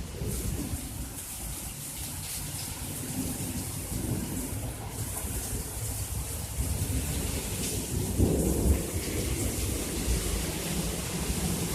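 Torrential rain pouring down hard, with a deep low rumble underneath that swells about eight seconds in.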